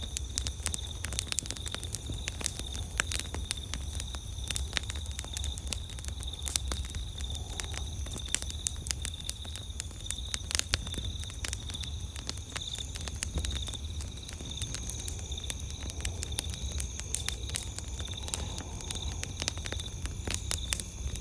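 Wood campfire crackling, with frequent sharp irregular snaps and pops over a low steady rumble of the burning.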